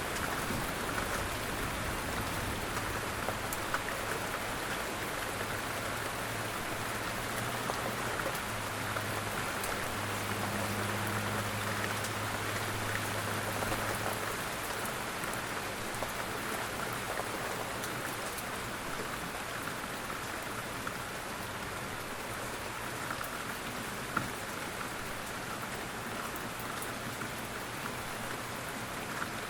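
Steady rain falling, a dense even patter with scattered individual drop ticks and one sharper tick about 24 seconds in. A faint low hum underneath stops about halfway through.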